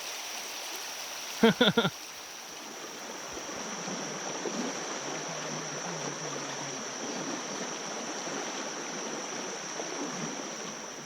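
Creek water rushing steadily over a small rapid. A brief voice sound about one and a half seconds in is the loudest moment.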